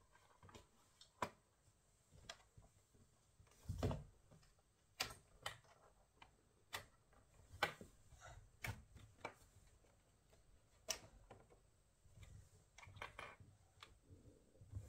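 Irregular small clicks and taps of hands working on a laptop and its parts, with a duller knock about four seconds in.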